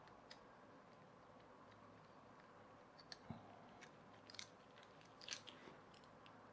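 Near silence, broken by a few faint clicks and light taps of small plastic toy parts being handled, mostly in the second half.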